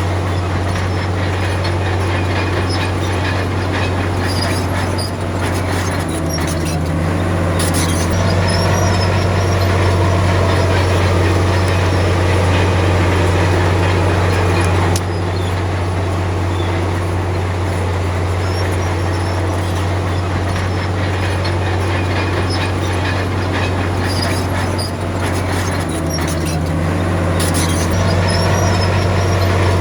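Bulldozer's diesel engine running with a steady low drone, its note shifting a few times, with faint high clicks mixed in.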